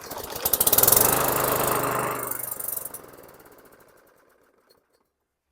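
Craftsman M100 lawn mower's small single-cylinder engine catching and running briefly, then losing power and dying out over a few seconds: a start-and-stall that the owner puts down to a dirty carburetor.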